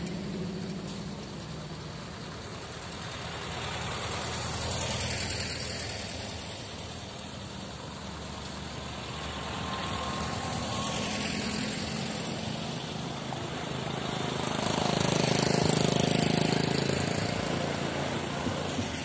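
Classic cars driving past one after another. The engine and tyre noise swells as each goes by, loudest about 5, 11 and 16 seconds in, over a steady engine hum.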